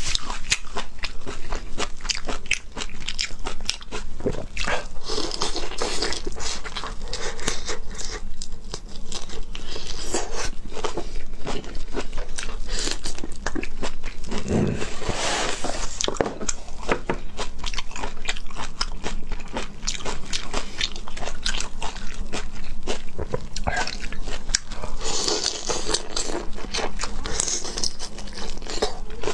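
Close-miked crunching and chewing of raw shell-on shrimp, a dense run of crisp clicks from the shells being bitten and chewed.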